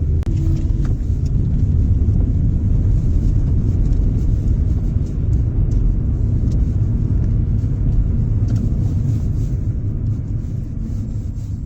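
Steady low rumbling noise that begins to fade toward the end.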